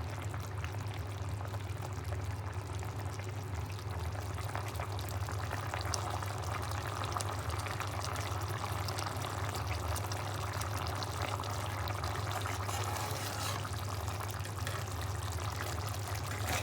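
Chicken curry bubbling and simmering in a pot, a steady wet bubbling with fine crackles over a constant low hum.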